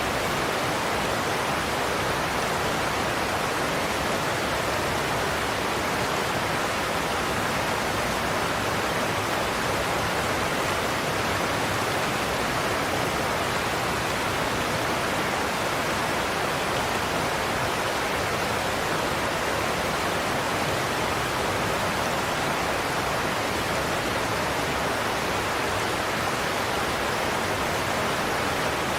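Godafoss waterfall: a steady, unbroken rush of heavy falling water, a dense even noise with no distinct splashes or breaks.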